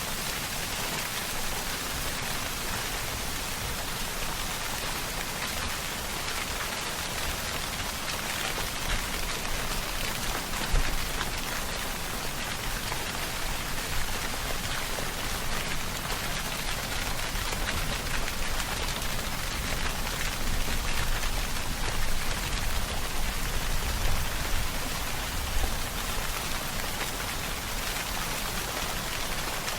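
Steady rainfall: a dense, even hiss of raindrops landing on surfaces, with a few brief low swells.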